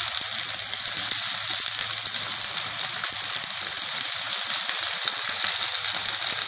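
Freshly washed green peas sizzling steadily in hot mustard oil in a heavy-bottomed kadhai: a constant high hiss.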